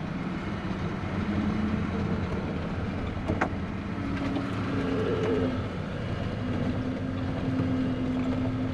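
Old snowcat's engine running steadily under load as it plows deep snow, with a higher steady tone coming and going and a single sharp click about three and a half seconds in.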